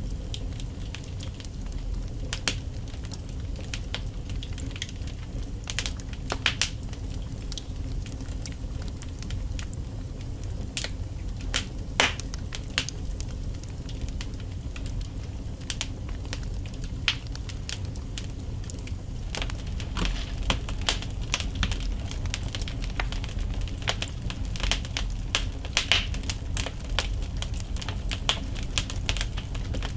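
Wood logs burning in a fireplace: a steady low rumble of flames with irregular sharp crackles and pops, which come more often in the last third.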